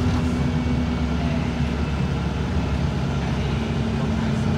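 Cummins ISB4.5 four-cylinder Euro 6 diesel engine of an Alexander Dennis Enviro 200 MMC bus running, a steady low drone. A tone riding on it fades about two seconds in and comes back slightly lower near the end.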